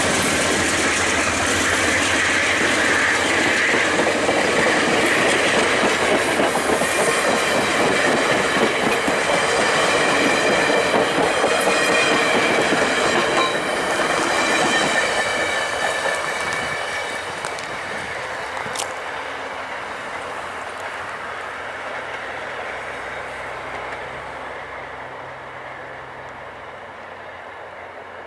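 VIA Rail passenger cars rolling past at low speed, their wheels clicking over the rail joints, with a steady high wheel squeal over the rattle. About halfway through, the sound starts to fade as the train draws away.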